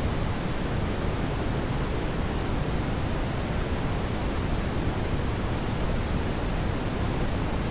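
Steady brown noise: an even, deep rushing hiss, strongest in the lows and fading toward the highs, with no changes or events.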